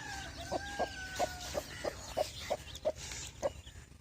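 Birds calling: a run of short, low clucking calls, two or three a second, with a longer held, whistle-like note over the first second and a half.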